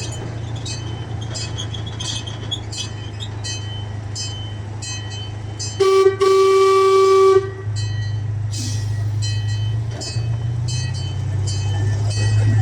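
Zoo train running with a steady low engine hum and regular clicking from the wheels on the track. About halfway through its horn sounds: a very short toot, then a longer blast of about a second.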